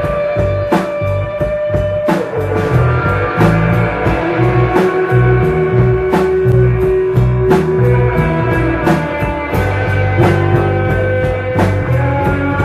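A rock band playing live, with no singing: drums keep a steady beat under long held notes that change pitch every second or two, over a heavy bass line.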